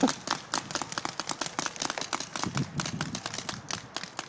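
Several paintball markers firing, rapid and irregular pops overlapping one another.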